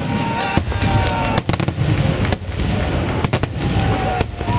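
Aerial firework shells bursting in quick succession: about ten sharp bangs over a continuous low rumble, with several whistling tones that slide slightly lower in pitch.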